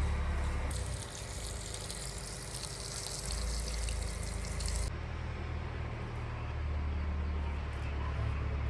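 Running water, hissing over a steady low hum; the hiss stops abruptly about five seconds in.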